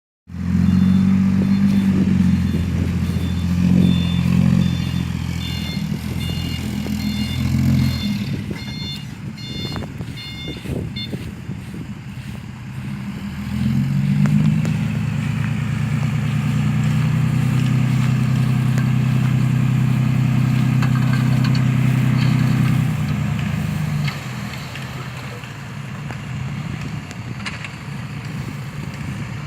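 Dump truck engine running, with a reversing alarm beeping repeatedly for several seconds in the first half. The engine pulls steadily and more loudly from about 14 to 23 s, then drops back.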